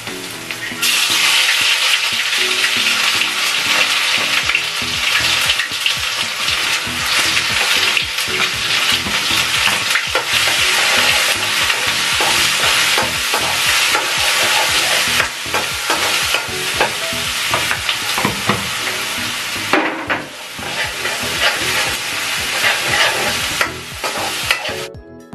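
Food tipped into hot oil in a deep metal pan on a gas burner, setting off a loud sizzle about a second in. It then fries steadily while a spatula stirs and scrapes the pan. The sizzle dips briefly near the end and cuts off just before it.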